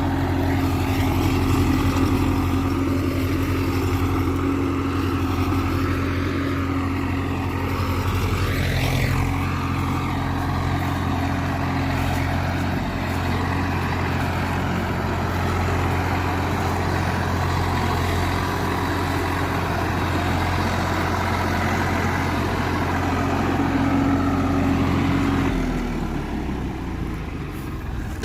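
Swaraj 744 FE tractor's three-cylinder diesel engine running at steady high revs, then slowing near the end as the revs drop.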